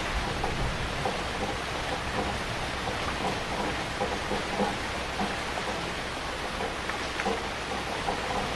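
Heavy rain falling steadily: a dense, even hiss with scattered louder drops spattering on a surface.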